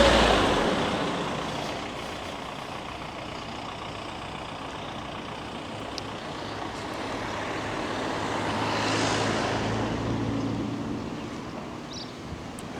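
Road vehicles passing close by: one goes past right at the start and fades within about two seconds, then a second builds up, passes about nine seconds in and fades away.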